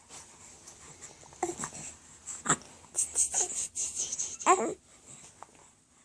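A tiny pet animal making short squeaky cries, each falling in pitch, four or five times, with wheezy breathing between them; the cry about four and a half seconds in is the loudest.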